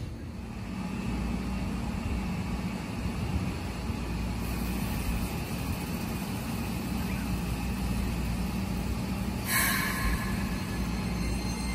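Keikyu electric commuter train pulling out of the station, with a steady low rumble and hum. A short burst of hiss comes about nine and a half seconds in, and a faint rising motor whine near the end as it picks up speed.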